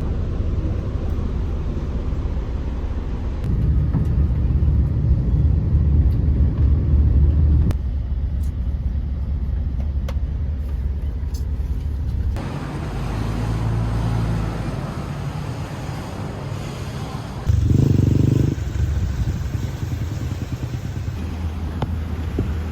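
Low, steady vehicle engine and road rumble, in several segments that change abruptly every few seconds.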